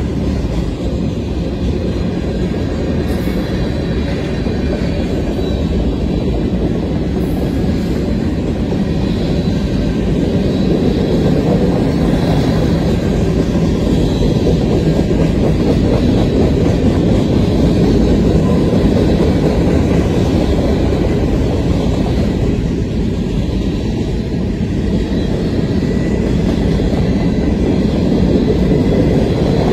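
Freight cars (autoracks, boxcars, covered hoppers) rolling past close by: a steady rumble of steel wheels on rail, slightly louder in the middle, with a few faint thin high tones over it.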